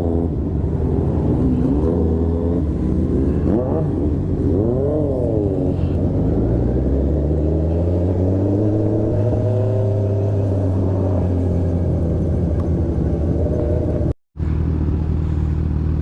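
Motorcycle engine running under way, its pitch rising and falling with the throttle and climbing steadily as it accelerates about six to ten seconds in. The sound drops out for an instant near the end.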